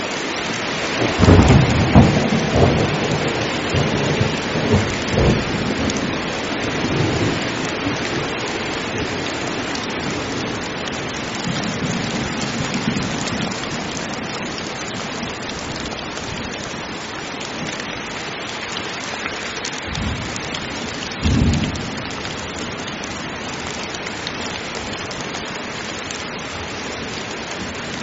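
Heavy rain falling steadily, with thunder. A long rolling peal starts about a second in and dies away over several seconds, a softer rumble follows, and a short sharp clap comes about three quarters of the way through.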